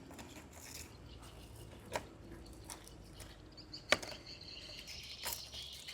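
A few sharp clicks and light knocks of hands handling plastic parts while a battery is fitted and strapped into an electric RC car. The loudest clicks come about two seconds in and about four seconds in.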